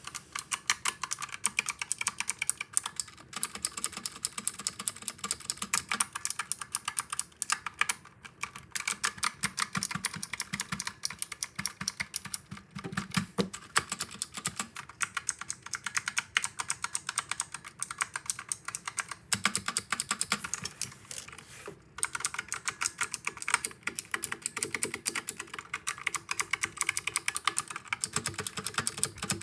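Fast, continuous typing on a Razer Huntsman Mini mechanical keyboard: a dense run of keystroke clicks, with a brief pause or two.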